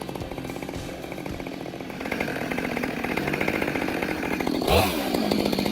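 Stump grinder running, its small engine and cutting wheel giving a rapid chainsaw-like rattle. There is a brief, sharper burst about five seconds in.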